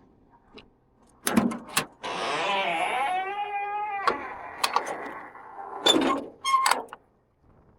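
Car door and latch clicks and knocks, with an electric motor whining for about two seconds in the middle, its pitch wavering.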